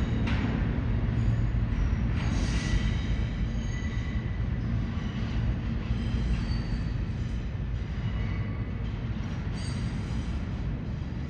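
R160 subway train moving through the station: a steady low rumble with high wheel squeals that come and go, slowly fading.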